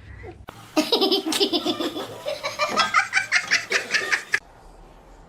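A person laughing hard in a quick run of repeated bursts for a few seconds, cutting off suddenly.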